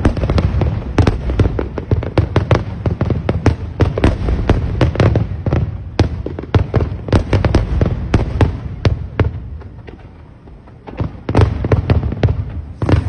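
Fireworks going off in a dense barrage, many sharp bangs and crackles a second over a deep rumble. The barrage thins out about nine seconds in, then picks up again a couple of seconds later.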